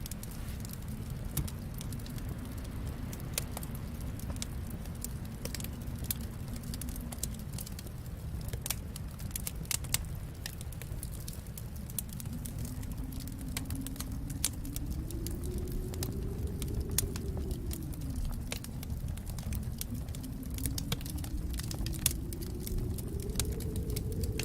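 Wood fire crackling, with frequent irregular pops over a steady low rumble. In the second half a faint low sound slowly rises and falls in pitch twice.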